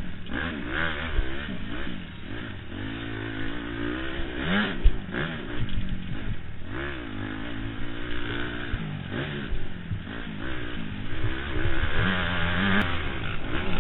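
Honda CRF four-stroke motocross bike engine revving hard and dropping back again and again as it is ridden round the track, with short knocks and clatter from the rough ground, heard from a helmet camera with wind noise.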